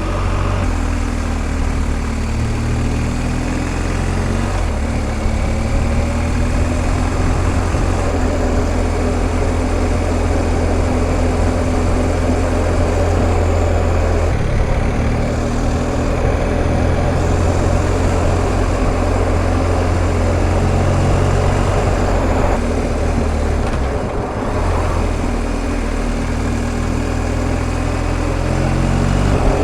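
BMW R1250 GS Adventure's boxer-twin engine running as the bike is ridden, with wind and road noise. The engine note shifts in pitch a few times as the speed changes.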